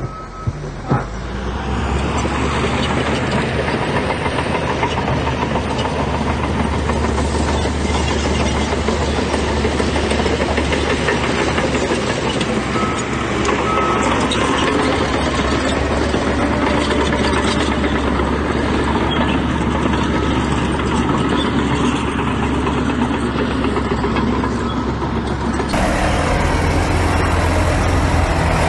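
Heavy diesel earthmoving machinery running steadily, a low engine drone with mechanical noise over it, and a couple of sharp knocks about a second in. The sound changes abruptly near the end.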